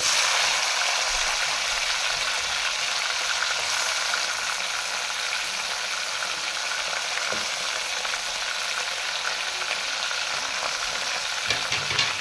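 Onions and freshly added chopped tomatoes sizzling in hot oil in an aluminium pot, with a wooden spoon stirring through them. The steady, loud sizzle starts abruptly.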